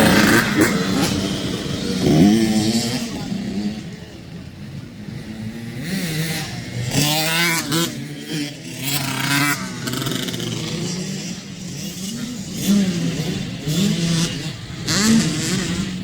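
Dirt bike engines running and revving, the pitch rising and falling again and again as the throttle opens and closes through the gears.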